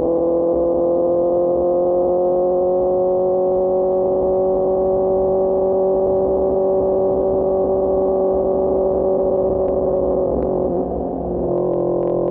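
QJ Motor SRK600's inline-four engine running through a Pure Austin Racing GP1R exhaust while riding, its pitch creeping slowly upward. Near the end the sound briefly dips and then settles at a slightly lower pitch.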